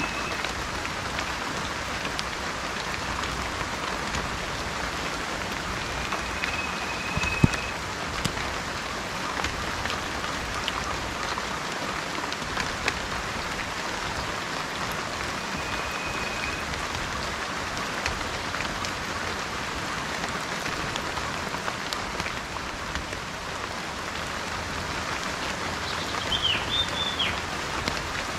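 Steady rain falling, with scattered drop ticks. A bird gives a short held whistle three times and a quick call of rising and falling notes near the end.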